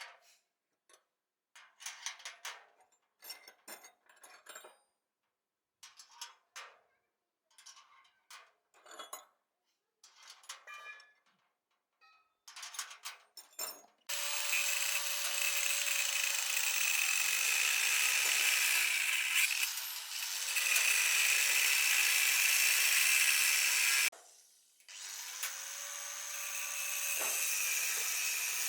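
A series of short knocks and clatters, then a handheld power tool starts and runs steadily, its pitch dipping now and then under load. It stops briefly near the end and starts again.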